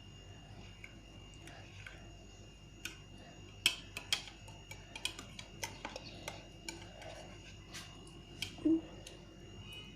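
Irregular light clicks and taps of kitchen utensils, a knife or spoon against a dish or jar, about a dozen over several seconds, over a faint steady high whine.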